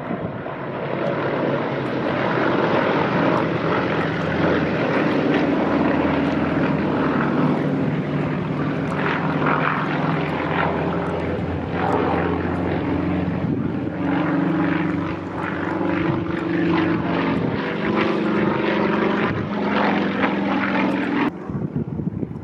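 Propeller-driven light aircraft piston engine running steadily, its pitch shifting a little, until an abrupt cut about a second before the end.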